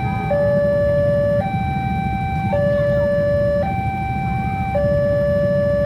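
Two-tone electronic warning alarm, switching between a lower and a higher tone about once a second, over a steady low rumble.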